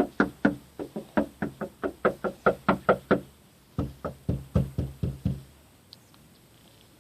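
Knuckles rapping on a door in quick, even knocks, about four or five a second. A long run of knocks stops briefly, then a second, shorter round follows.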